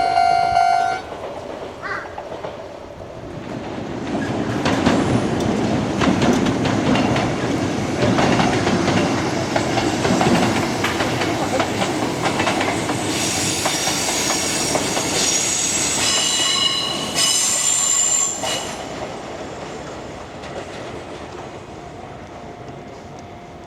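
Kintetsu electric train passing over a level crossing: a loud held horn note cuts off about a second in, then the rumble of the train builds with the clickety-clack of wheels over rail joints. From about halfway through the wheels squeal high-pitched for several seconds, and the train fades away over the last few seconds.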